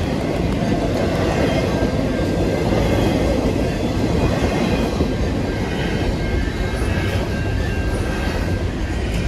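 A CN intermodal freight train of double-stack container well cars rolling past close by: a steady rumble of steel wheels on the rails.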